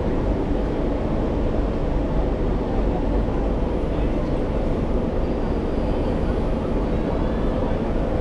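Steady city traffic noise heard from a moving bicycle, with wind rumble on the chest-mounted camera's microphone. It is a continuous low rumble with no single standout event.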